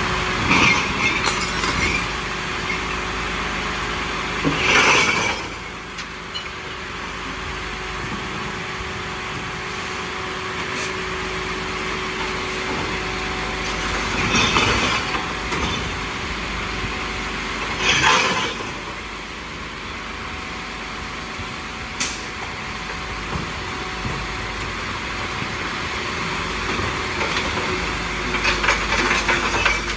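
Recycling garbage truck running steadily, with short hissing bursts four times. The loudest bursts come about five and eighteen seconds in.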